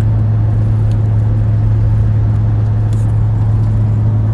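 A steady low hum under a constant noise, without change.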